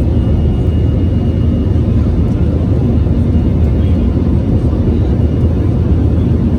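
Airbus A321's CFM56-5B3 turbofan engines running with a steady roar, a dense low rumble with little change in level.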